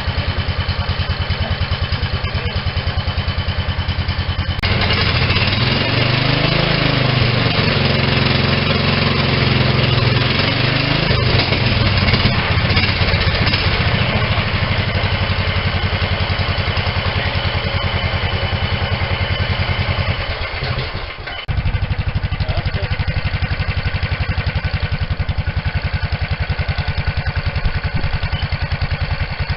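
Go-kart's 11 HP small engine running on a test run, with its firing pulses steady, revved up and down between about five and eleven seconds in. It briefly drops away about twenty-one seconds in, then picks straight back up.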